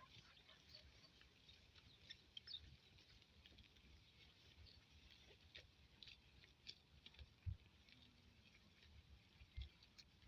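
Near silence: faint outdoor ambience with scattered small ticks and two soft low thumps near the end.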